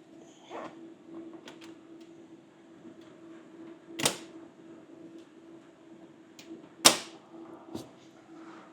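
Clicks and knocks from handling a heat recovery ventilator's filters and access panel, with two sharp knocks about four and seven seconds in, over a steady machinery hum.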